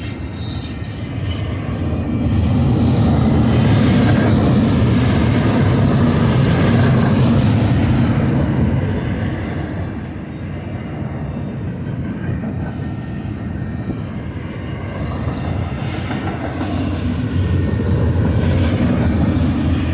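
Freight train rolling by with a steady low rumble that swells twice, about two seconds in and again near the end.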